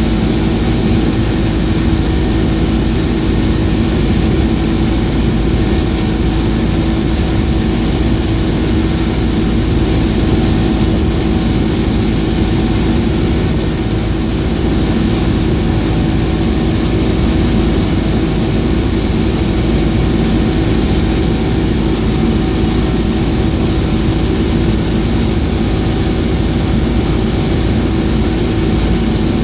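Suzuki DT 225 two-stroke V6 outboard motor running steadily under way, with a constant engine note and hiss.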